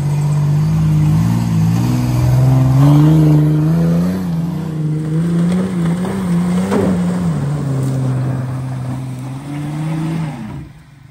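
Mitsubishi Montero's engine working hard up a steep off-road climb, its pitch rising and falling as the throttle is worked. About ten and a half seconds in it drops off sharply.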